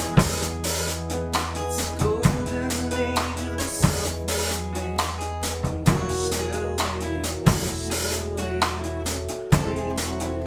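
A band playing a song: a drum kit keeping a beat with kick and snare hits, over held bass notes and other pitched instruments.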